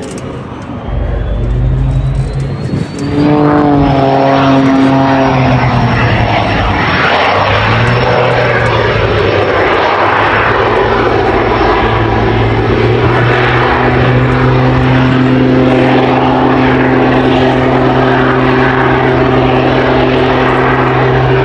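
Aircraft engines running loud: a high turbine whine rises in pitch over the first few seconds and then holds steady, over a steady lower engine drone. These are a jet-assisted Pitts Special aerobatic biplane's piston engine and its small jet engines.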